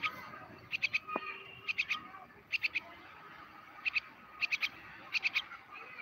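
Bird calling in quick runs of three or four short, sharp high chirps, the runs repeating every second or so.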